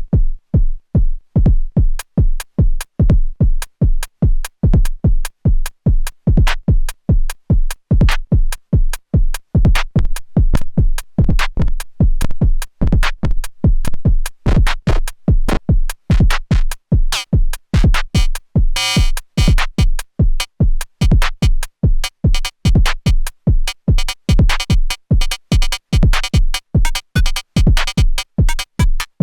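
Erica Synths Perkons HD-01 drum synthesizer playing a steady electronic drum pattern of fast, evenly spaced hits with a heavy low kick. A short noisy burst comes about two-thirds of the way through, and more mid-range tone fills in after it.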